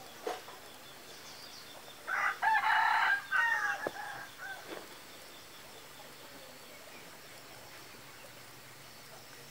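One loud pitched bird call, starting about two seconds in and lasting about two seconds, with a few fainter notes trailing after it. A brief click comes just after the start.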